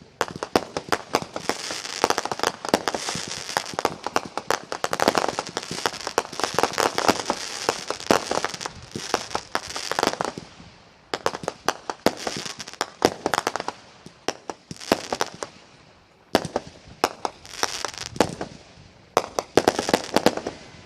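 Aerial fireworks going off in rapid volleys of bangs and pops, with dense crackling between them, in waves with short lulls.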